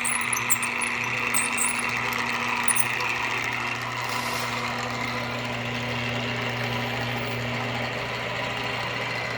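The mill spindle motor of an Emco Maximat Mentor 10 lathe/mill combination running with a steady hum. Light mechanical clicks and ticks in the first three seconds come from the mill head being raised and lowered; one tone of the hum drops away near the end.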